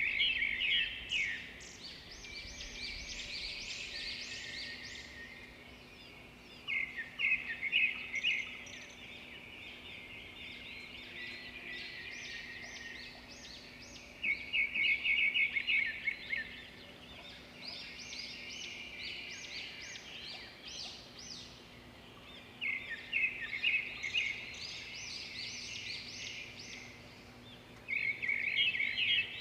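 Birdsong: a songbird singing in repeated phrases about every six to eight seconds, each opening with a loud rapid run of notes and trailing off into softer, higher chirping.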